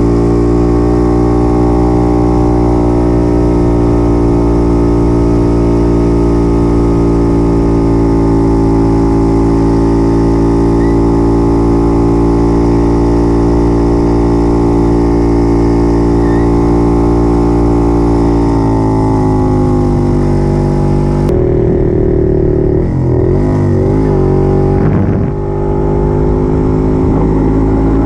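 Puch 250 TF's two-stroke engine running at a steady speed under way, its note dropping a little about 19 seconds in. After a sudden change about 21 seconds in, the engine note rises and falls repeatedly as the throttle is worked.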